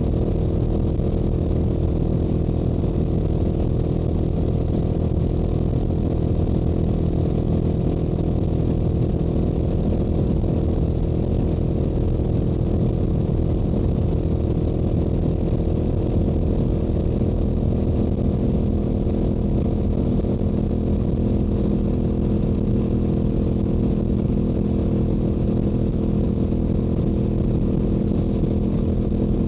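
Stock exhaust of a Yamaha YZF-R7's 689 cc parallel-twin engine at a steady highway cruise, its note holding a constant pitch, with wind rush.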